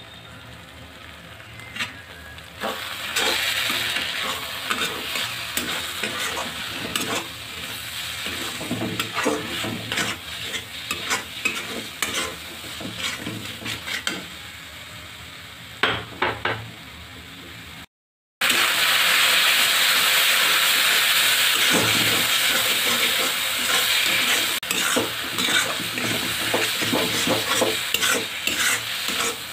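Chopped garlic, chilli and onion masala sizzling in hot oil in a kadai, stirred and scraped with a spatula, with many small scrapes and clacks against the pan. It starts a few seconds in, breaks off briefly just past the middle, then comes back louder.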